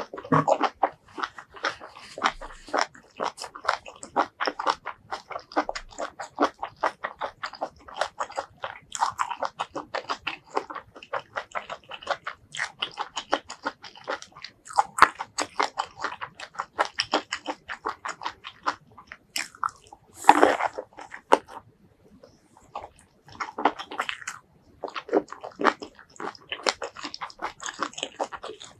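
Close-miked chewing of chili-and-garlic-coated vegetables: fast, dense, wet crunching and mouth clicks. There is one louder crunch about twenty seconds in and a short lull soon after.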